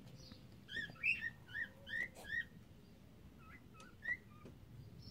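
Cockatiel chirping: a quick run of about six short rising-and-falling chirps, then a few softer ones.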